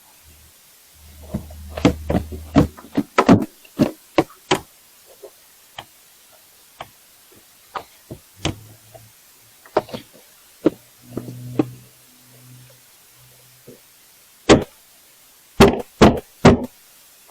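A run of sharp knocks and bangs as hard objects are handled, moved and set down, in three clusters with quiet gaps between, and a short low hum under two of them.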